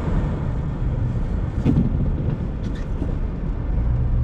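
Car driving, a steady low rumble of engine and tyre noise, with a few faint ticks.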